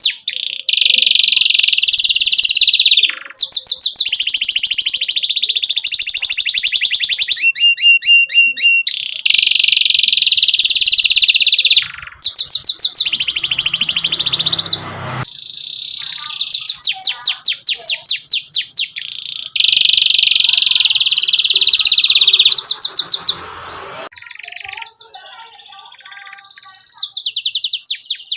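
Domestic canary singing a long, continuous song: phrases of rapid repeated notes alternating with sustained rolling trills, each changing every one to three seconds, with a quieter, softer passage near the end.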